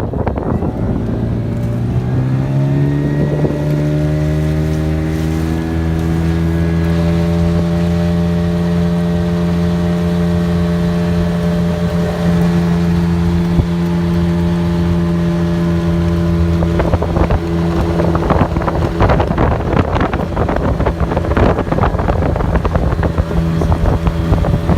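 Yamaha 9.9 hp outboard motor rising in pitch over the first few seconds as it is opened up, then running steadily at speed as the inflatable boat gets up on plane during break-in. From about 17 s in, wind and water noise grow louder, with rapid thuds.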